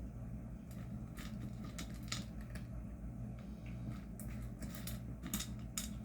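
Cats eating, with about ten short, sharp clicks and crunches scattered irregularly over a steady low hum.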